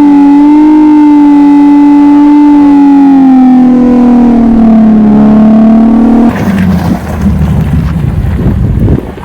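Infiniti G37S's 3.7-litre V6 held at high revs, its pitch sagging slowly, then dropping off abruptly about six seconds in to a rough, uneven rumble. This is typical of a car spinning its wheels in place on snow and ice.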